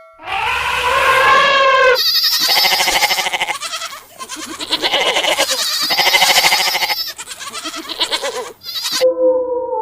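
Goat bleating, a run of long, wavering calls. Near the end a different, steady held tone takes over.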